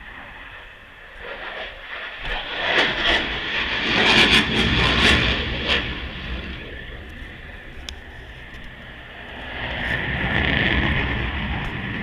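Aircraft engine noise swelling as a plane passes, loudest about four to five seconds in, fading, then building again near the end as another pass comes by.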